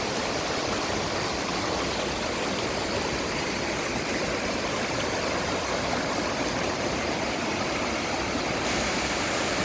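Mountain stream running over rocks: a steady rush of flowing water, a little brighter near the end.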